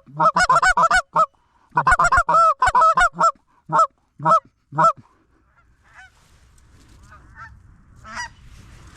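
Goose honking: a rapid series of loud honks and clucks for about five seconds, then fainter scattered honks near the end.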